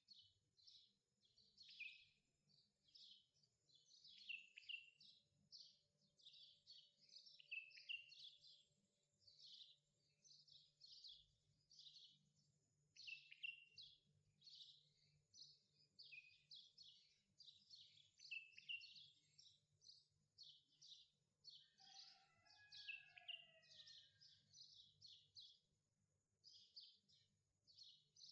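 Faint birds chirping continuously: quick, high, downward-sweeping chirps, several a second. A lower, slurred call from another bird comes in about three-quarters of the way through.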